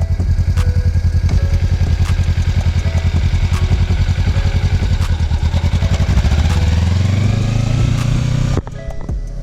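A Kawasaki Ninja 300's parallel-twin engine runs with a rapid, low, even pulse. About six and a half seconds in it revs up with rising pitch, then drops away suddenly near the end.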